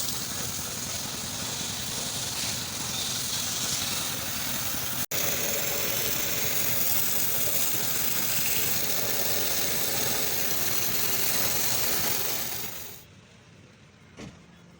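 Steady, loud hissing of a high-pressure spray cleaning engine parts. It breaks off for an instant about five seconds in and stops abruptly near the end. A single short knock follows.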